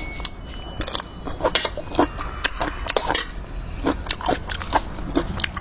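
Irregular crunching and clicking of food and utensils: short, crisp, unevenly spaced sounds with no steady rhythm.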